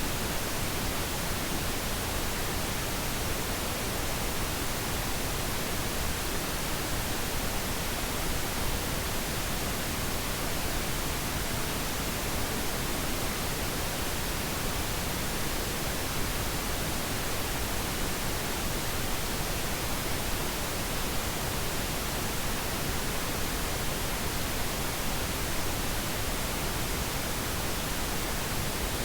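Steady pink noise: an even, unchanging hiss across all pitches, generated as a sleep aid.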